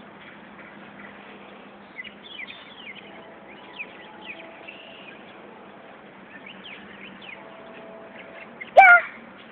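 Small birds chirping in quick, scattered calls over a steady outdoor hiss. Near the end, a short, loud, high-pitched cry stands out above them.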